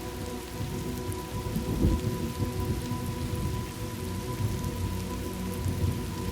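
Recorded thunderstorm ambience: steady rain with low rumbles of thunder, the strongest rumble about two seconds in.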